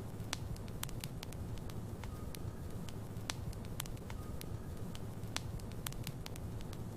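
Wood logs burning in a fireplace: a steady low rumble of flames with frequent sharp crackles and pops, about two a second.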